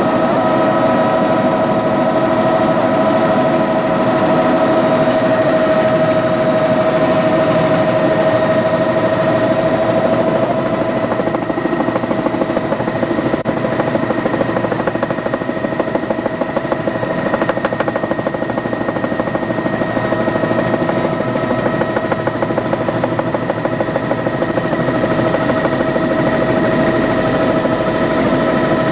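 Helicopter running steadily in flight, a constant turbine whine over the beat of the rotor; from about ten seconds in the rotor's rapid chopping comes through more plainly.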